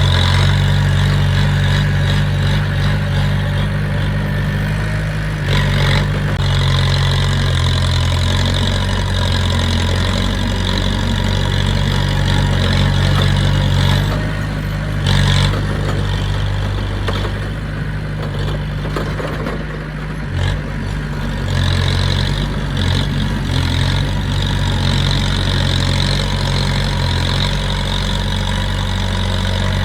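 Heavy earthmoving machine's diesel engine running steadily under varying load, its low drone shifting in pitch now and then, with a couple of short knocks about 6 and 15 seconds in.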